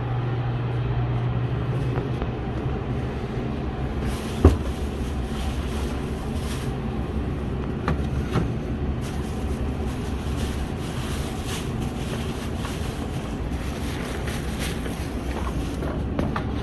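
Pickup truck running, heard from inside the cab as a steady low hum and road noise, with a sharp click about four and a half seconds in.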